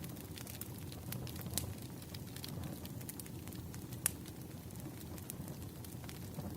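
Firewood burning: a steady low rumble with scattered sharp crackles and pops, the loudest pop about four seconds in.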